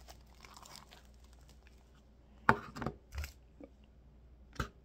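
Sticky white-glue slime being worked by hand, with faint sticky crackling and a few sharp taps, the loudest about halfway in.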